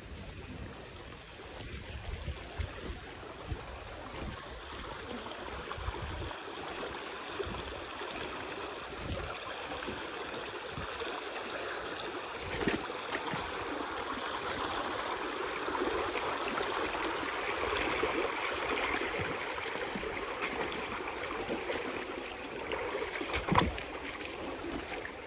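Stream water rushing, getting louder toward the middle and easing off near the end, with a sharp knock about halfway through and a louder one near the end.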